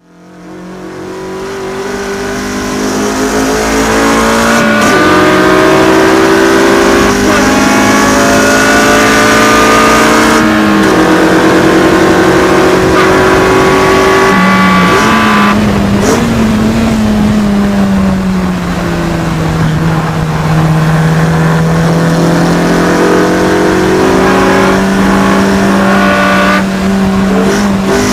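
Honda four-cylinder race-car engine at full throttle on a track lap, pitch climbing through each gear and dropping sharply at several upshifts, then easing and pulling hard again. The sound fades in over the first second or two.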